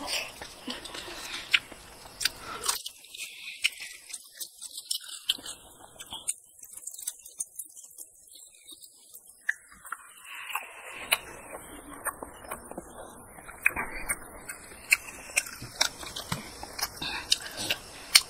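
Close-up eating sounds of a mouth chewing curried chicken heads and rice: wet chewing and lip-smacking with many sharp mouth clicks throughout.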